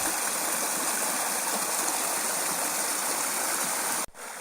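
Small burn (stream) running over stones, a steady rushing hiss of water. It breaks off sharply about four seconds in and resumes quieter.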